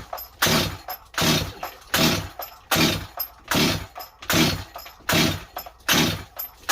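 Stihl 025 chainsaw being pull-started again and again, about one rope pull every 0.8 s, the engine cranking without catching. It sounds flooded to the owner.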